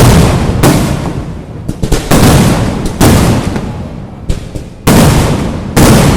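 Kerala temple fireworks (vedikettu): a rapid series of very loud firecracker blasts, about seven in six seconds, each with a rolling, booming echo that runs into the next.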